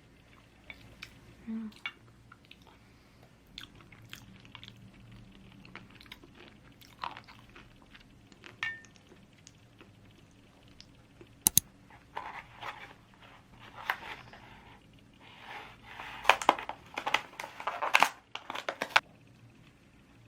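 Close-up eating sounds: scattered small clicks and bites at first, then a dense run of loud crunching and crackling between about 12 and 19 seconds in.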